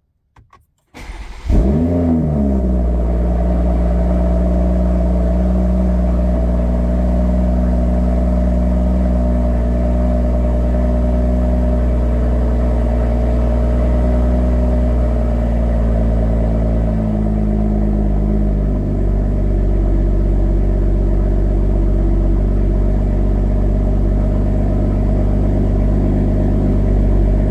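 2022 Toyota Supra with an AWE Touring non-resonated exhaust on a cold start. The engine catches about a second in with a short rev flare, then settles into a steady, loud, fast cold idle that drops a little lower about two-thirds of the way through.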